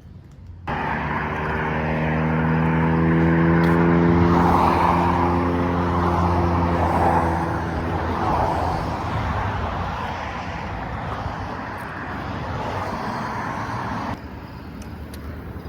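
A motor vehicle's engine running close by, a steady low hum with road noise that starts suddenly about a second in, swells, then fades and drops away near the end.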